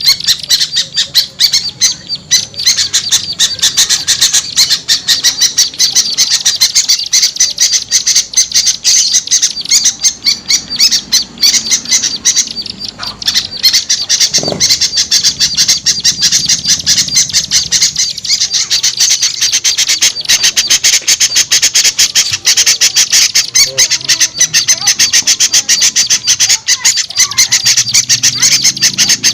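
Dense, unbroken high-pitched chattering of many small birds calling rapidly over one another: a small-bird luring call mix.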